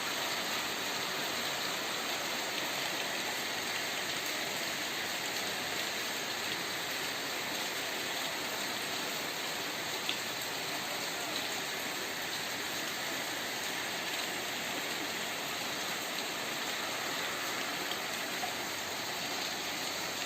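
Heavy rain falling steadily, an even rushing hiss of rain, with one small click about halfway through.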